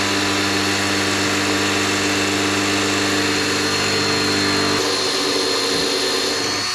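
Electric drill running steadily under load, drilling into a stripped fender bolt where a screw extractor has snapped off. A motor hum with a thin high whine, its low tone changing about five seconds in.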